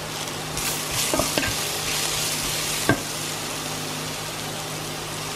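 Sliced mushrooms, onion and garlic sizzling in oil in a coated pot while a wooden spatula stirs them. A few knocks of the spatula against the pot, the loudest a little under three seconds in.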